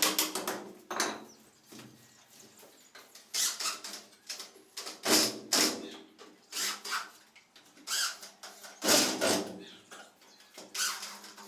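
Woodworking noises from a wooden cabinet being assembled: irregular scrapes and knocks of wood being handled and worked, in short bursts with pauses between them.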